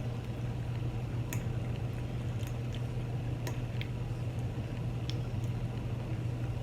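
Quiet chewing with scattered small mouth and eating clicks while eating chili cheese fries, over a steady low hum.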